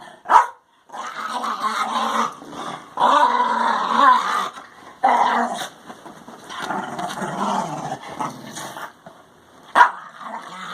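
Husky puppy play-growling through most of the stretch while wrestling, with a sharp bark just after the start and another near the end.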